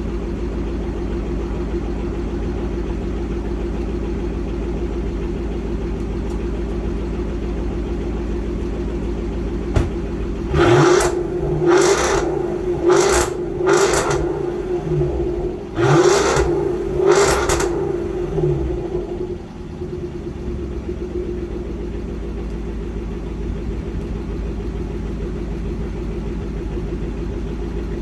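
Overfinch Range Rover Sport's supercharged 5.0-litre V8 idling through its sport exhaust, then blipped about six times in quick succession about ten seconds in, each rev rising and dropping sharply, before settling back to a steady idle.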